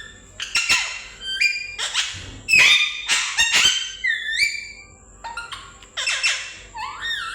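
A parrot calling: runs of whistled notes that glide and step up and down in pitch, mixed with short harsh squawks.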